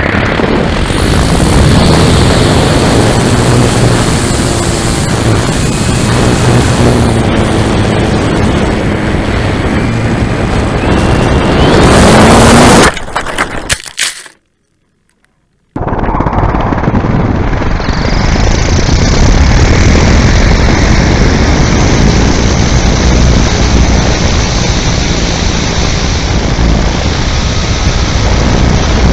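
Onboard sound of an electric RC airplane in flight: steady wind rush and motor noise, swelling to its loudest about twelve seconds in, then cutting off abruptly. After a second or two of silence a similar steady rushing resumes, duller in tone.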